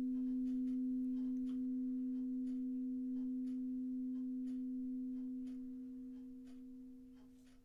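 A single sustained, nearly pure ringing tone from a sound-healing instrument, slowly dying away over several seconds.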